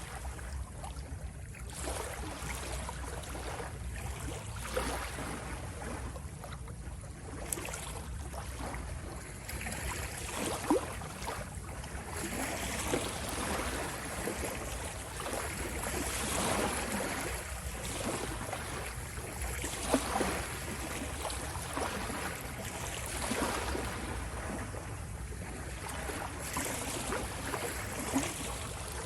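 Ocean waves washing in, a continuous rush of surf that swells and ebbs every few seconds over a steady low rumble, with a few brief sharp spikes.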